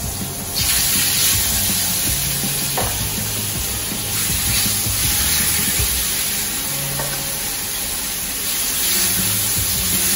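Jerk-spiced chicken pieces sizzling in hot oil in a frying pan as they are laid in with tongs. The sizzle jumps up about half a second in as a piece hits the pan, and swells again twice as more pieces go in.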